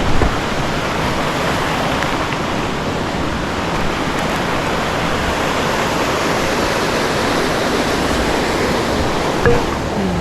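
Creek water rushing steadily over rocks, with a brief low thump near the start and another near the end.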